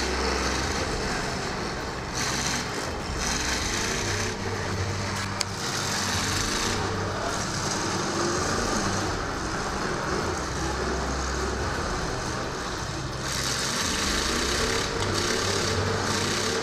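Several demolition derby cars' engines running together, their pitch rising and falling as they rev and drive around the arena, with a single sharp knock about five seconds in.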